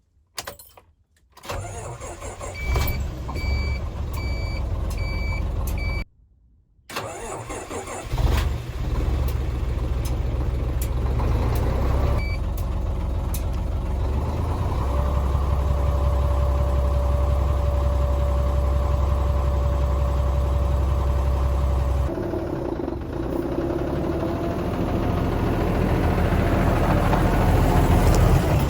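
Hino Profia heavy truck's diesel engine starting about a second and a half in and running, with a repeating electronic warning beep for the first dozen seconds. After a short break, the engine runs on with a steady whine over it for several seconds in the middle, and the sound grows louder toward the end.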